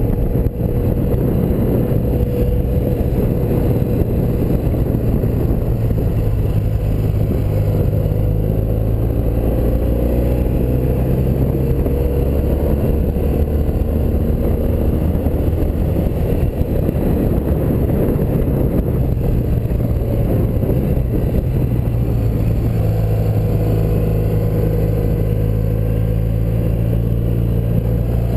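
1984 BMW R100RS's air-cooled flat-twin engine running under way, heard over steady wind rush. Its pitch slides up and down through the middle as the engine speed changes, then settles back to a steady drone.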